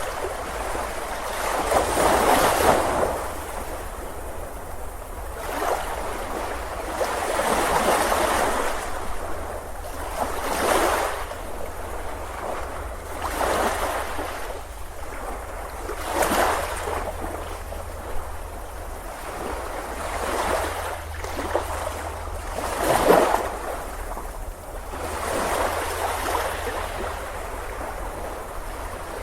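Ocean waves breaking on a beach, the surf swelling and washing back in surges every two to three seconds.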